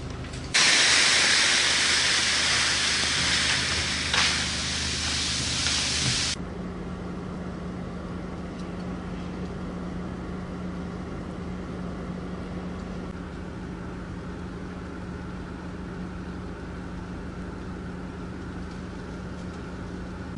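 A loud, even hiss of heavy freezing rain falling, which cuts off suddenly about six seconds in. After that comes a steady low hum of idling vehicle engines over faint street noise.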